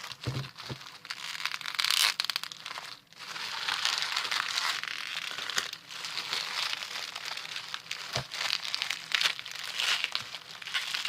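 Plastic bubble wrap crinkling and crackling as it is peeled off a freshly set bar of soap, in a steady run of small crackles with a few louder bursts.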